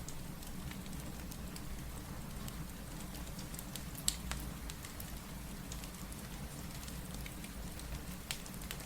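Steady rain with a low rumble under it, and a fireplace crackling with scattered small pops, one sharper pop about four seconds in and another near the end.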